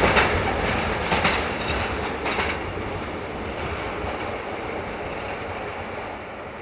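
A train's wheels clattering over rail joints as it draws away. The clicks stop about two and a half seconds in, and the rumble then fades steadily.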